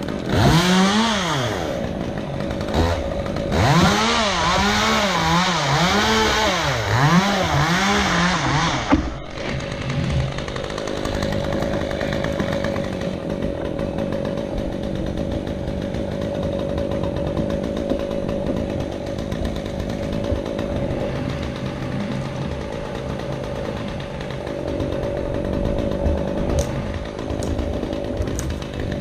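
Gas chainsaw cutting wood, its engine revving up and down over and over. About nine seconds in the revving stops, and a steadier engine drone with a constant hum carries on.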